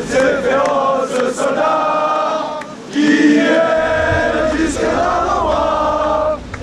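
A group of voices singing a drawn-out chant in unison, with long held notes in phrases that break off briefly about halfway through and again near the end.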